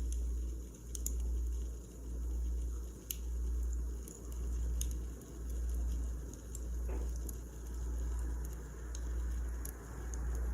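Wood fire crackling, with sparse sharp pops and a soft hiss, over a low rumble that swells and fades about once a second.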